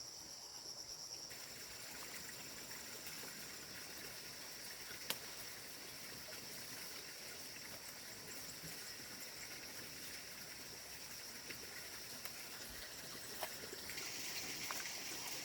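Steady high-pitched insect chorus over a faint even hiss, with one sharp click about five seconds in.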